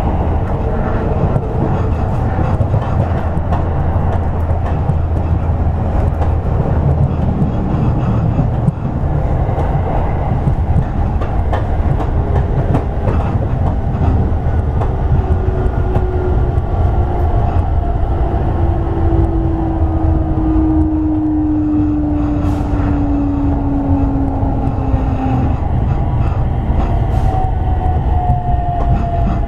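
Toei 10-300 series electric commuter train running, heard from on board: a steady rumble of wheels on rail and running gear. From about twelve seconds in, a thin motor whine falls slowly in pitch, and more falling tones follow near the end.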